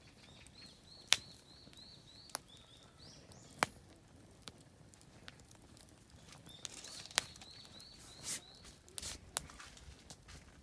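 Oak firewood burning in a campfire, giving off a handful of sharp, isolated pops, the loudest about a second in. A bird sings two runs of short, quick, repeated high notes behind it.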